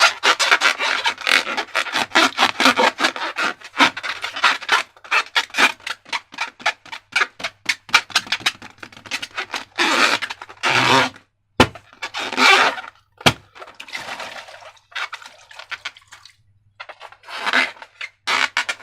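Slime being squished and worked by hand: a fast run of short clicks and pops for the first half, then longer separate squelches, with two sharp snaps in the middle.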